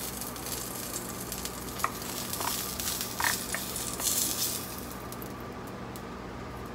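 Salmon sizzling as it fries in a pan, with a few light clinks of a utensil. The sizzle drops away sharply about five seconds in.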